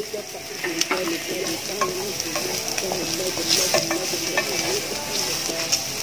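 Sliced pork and minced garlic sizzling in a hot nonstick frying pan while being stirred, with a steady hiss and many light clicks and scrapes of the stirring utensil against the pan.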